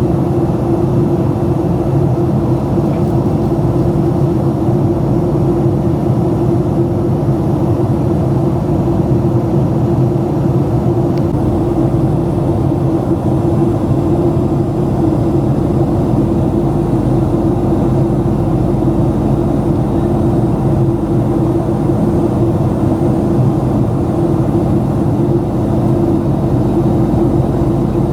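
Steady cabin drone of a Boeing 737-700 in flight: its CFM56-7B jet engines and the airflow around the fuselage, heard from a window seat, with an even low hum and no changes in thrust.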